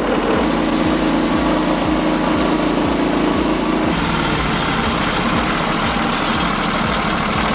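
Small saw engine running steadily under load as a log is milled into boards, its pitch shifting slightly lower about four seconds in.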